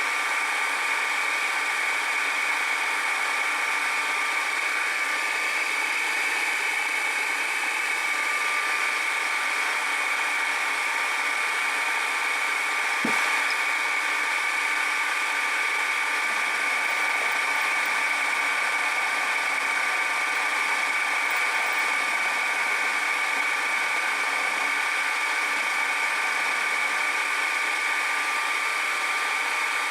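Machine tool running steadily with its spindle at about 800 RPM, making a constant whine while it takes a cutting pass on the gear part. There is one brief sharp click about 13 seconds in.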